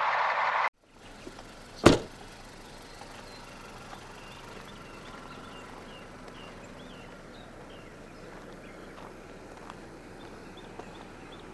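A Caterpillar diesel truck engine running, cut off abruptly less than a second in. About two seconds in comes a single sharp bang, like a door shutting. After that there is quiet outdoor background with faint, repeated bird chirps.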